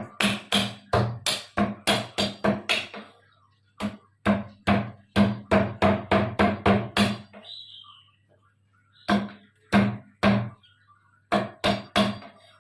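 Rapid chopping strikes of a blade on wood, about three to four blows a second, in four runs of several blows with short pauses between.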